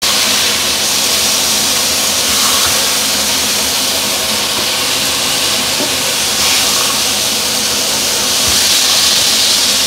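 Fish fillets sizzling steadily in hot oil in a frying pan.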